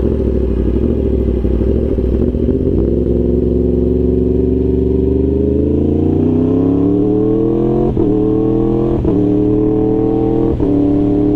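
Yamaha R1 inline-four engine pulling away under throttle, its pitch climbing steadily for several seconds, then three quick upshifts in a row, each a brief break in the sound before it climbs again.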